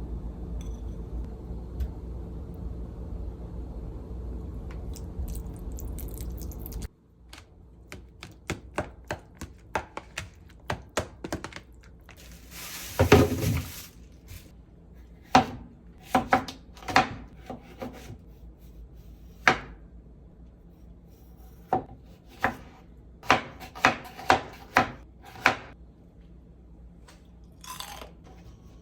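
A steady low rumble that cuts off suddenly about seven seconds in, then a kitchen knife chopping vegetables on a cutting board: irregular sharp knocks in clusters, with a longer scraping, rustling burst about thirteen seconds in.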